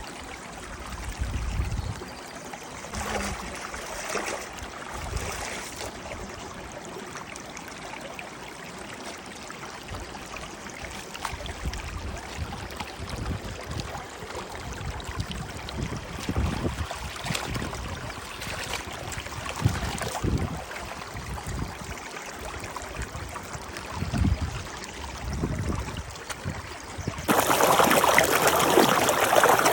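Stream water running steadily, with scattered low thumps. About 27 seconds in the rush of water suddenly becomes much louder and fuller.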